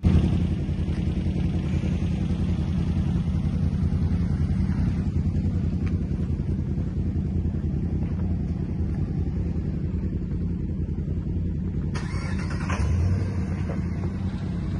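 A motor vehicle's engine running steadily at an even, low pitch, with a brief louder noise about twelve seconds in.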